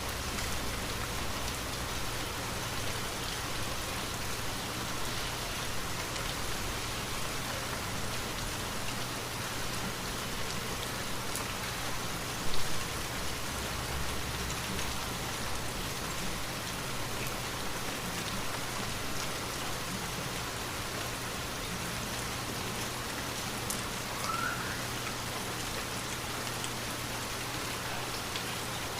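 Steady rain falling, an even hiss of drops on a surface. A single brief louder hit stands out about twelve seconds in.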